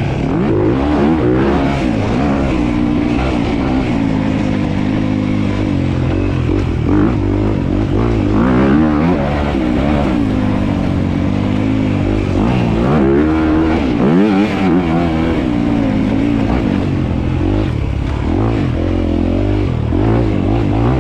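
Dirt bike engine revving up and down repeatedly as the bike is ridden hard on a motocross track, the pitch rising and falling with throttle and gear changes.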